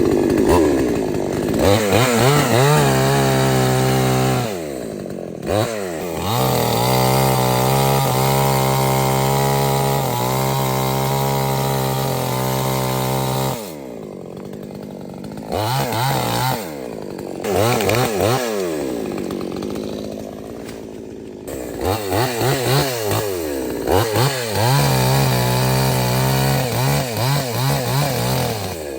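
Two-stroke chainsaw engine running hard, its pitch repeatedly dropping and rising as the throttle is opened and eased. It holds a long steady stretch at high speed through the middle and gives a run of quick throttle blips near the end.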